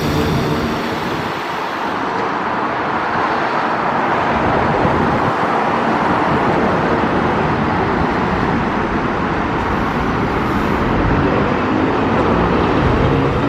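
Train running through the station on the electrified line: a loud, steady rolling rumble of wheels on rails.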